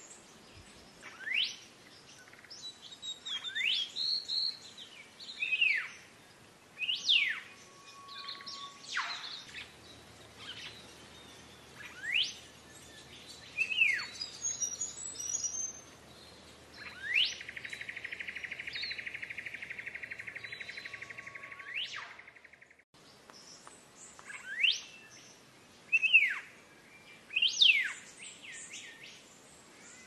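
Black-faced monarch singing: a series of loud, sharp whistled notes that sweep steeply up or down, about one every second or two. About two-thirds of the way through comes a buzzy, rasping call lasting several seconds.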